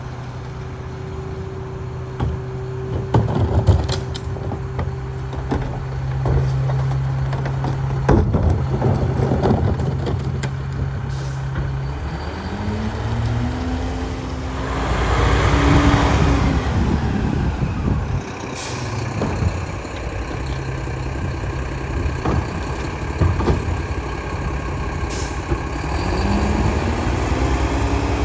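Mack Granite garbage truck with a New Way King Cobra body at work: its diesel engine runs steadily under scattered knocks and clatter, then revs up and back down around the middle with a burst of noise, and revs up again near the end. Short air-brake hisses come in between.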